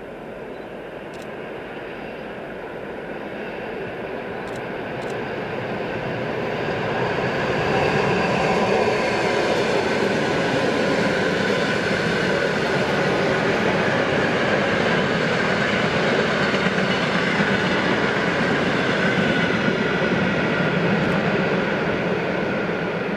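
An EP2D electric multiple unit passing on the line. It grows louder over the first eight seconds or so, then runs past loud and steady, easing a little near the end.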